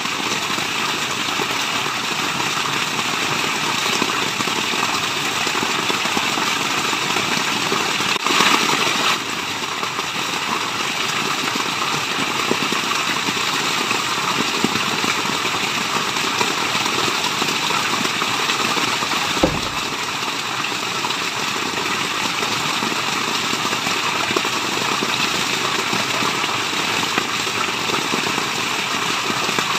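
Steady rushing of falling water, an even white-noise hiss, with a brief louder surge about eight seconds in and a single low thump later on.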